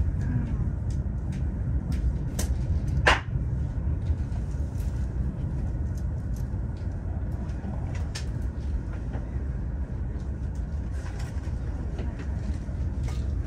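ICE high-speed train running over a steel truss railway bridge, heard from inside the carriage: a steady low rumble with scattered sharp clicks from wheels and track, the loudest about three seconds in.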